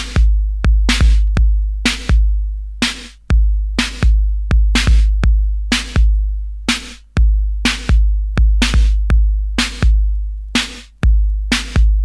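Instrumental drum-machine beat from 1980s electro/Miami bass: long, deep sustained kick drums under sharp, crisp claps or snares in a steady, driving rhythm, with no vocals.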